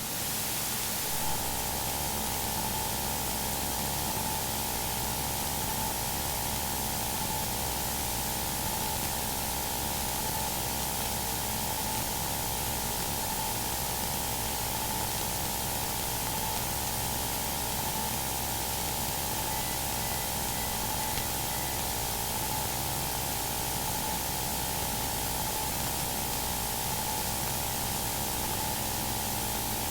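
Steady hiss of static on an aircraft radio audio feed, with a faint steady tone and low hum underneath: an open channel with no transmission on it.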